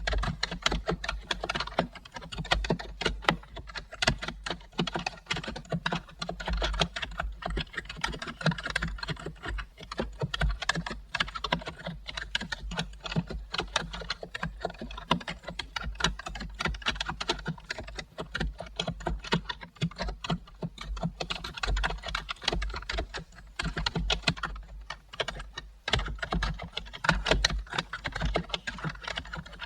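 Continuous fast typing on a computer keyboard: dense, uneven key clicks with no pauses.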